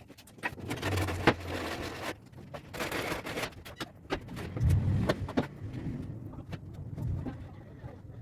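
Irregular workshop handling noises: sharp clicks and knocks mixed with short scrapes, as of wood and tools being moved about on a bench.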